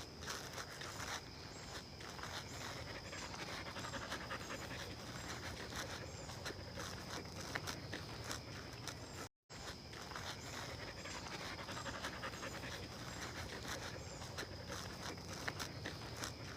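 Dog panting steadily, with a steady high tone and a faint high chirp repeating about once a second behind it. The sound cuts out completely for a moment about nine seconds in.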